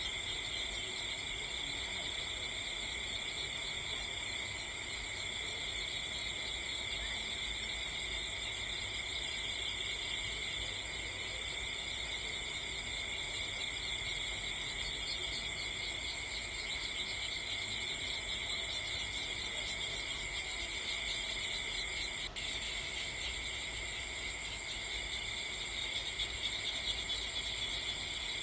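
A steady chorus of crickets, continuous high-pitched trilling in several layered pitches, with a split-second gap about three-quarters of the way through.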